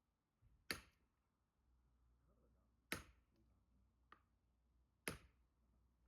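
Three sharp strikes of an axe splitting firewood, about two seconds apart, with a fainter knock between the second and third.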